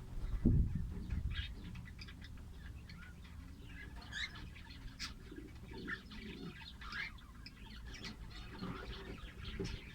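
Small cage birds chirping with many short, high calls, and a low thump about half a second in.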